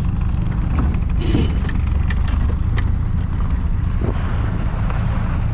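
Classic car driving: a steady low engine and road rumble, with a few faint ticks.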